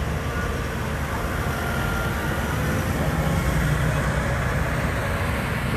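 Turbocharged diesel pulling truck engine running steadily, a continuous low rumble with a faint whine above it.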